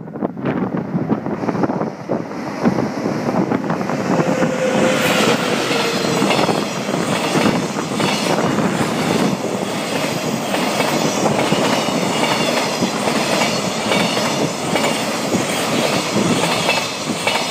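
A container freight train hauled by an EF81 electric locomotive rolls past on a river bridge: a continuous rumble of the wagons with wheels clicking steadily over the rail joints. There is a brief falling whine about five seconds in.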